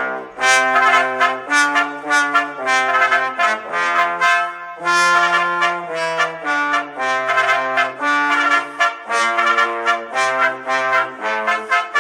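Brass band music: trumpets and trombones playing a lively tune of short repeated notes and held chords.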